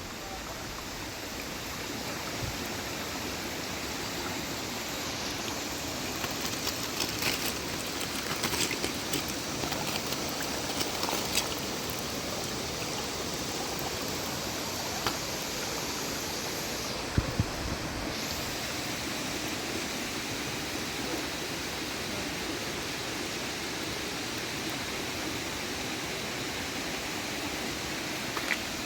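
Steady rush of flowing water. A scatter of light clicks comes through in the first half, and two sharp knocks sound a little past the middle.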